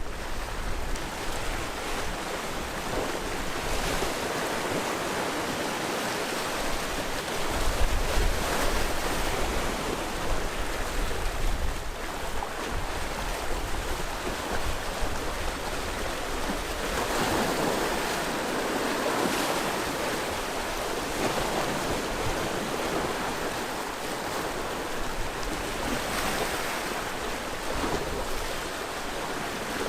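Sea waves washing onto the shore in a steady wash of surf, swelling and falling back, with the biggest surge about halfway through.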